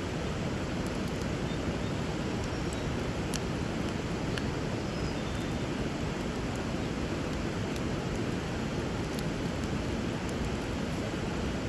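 Steady rush of flowing river water, with a few sharp pops and crackles from a burning wood fire scattered through it.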